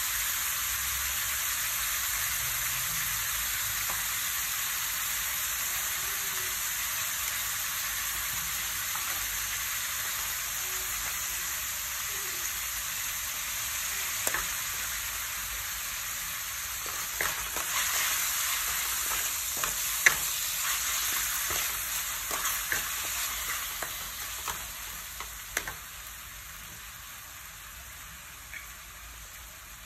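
Sliced beef and garlic sizzling in oil in a metal wok, with a wooden spatula scraping and knocking against the pan as it is stirred, the knocks clustered in the second half. The sizzle quietens gradually near the end.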